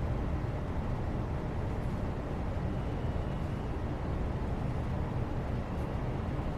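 Steady, even background rumble with most of its weight in the low end and no distinct events.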